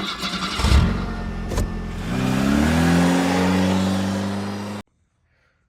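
A large engine revving: a noisy, rough start with two sharp knocks in the first two seconds, then the engine note climbs in pitch and holds high before cutting off suddenly.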